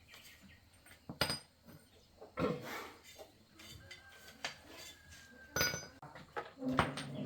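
Metal tools and parts clinking and knocking: a few separate sharp strikes over several seconds, with quieter clinks between them.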